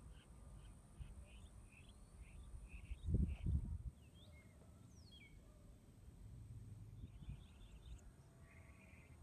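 Quiet outdoor ambience with birds chirping in short scattered calls, and a brief low rumble about three seconds in.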